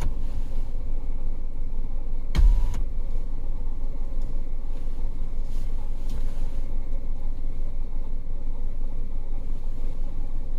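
Car engine idling steadily, heard from inside the stationary car, with one short thump about two and a half seconds in.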